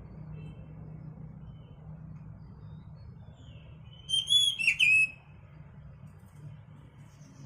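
A bird giving a short burst of loud whistled notes with quick pitch glides, about four seconds in and lasting about a second, after a few faint chirps. A steady low hum sits underneath.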